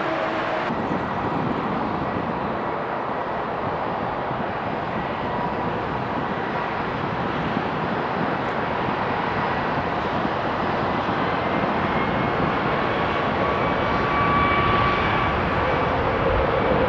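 Boeing 757-200 freighter's jet engine running on the ground during an engine test: a steady rushing noise with a thin whine on top. The whine steps up in pitch and the sound grows slightly louder in the last few seconds as the power is raised.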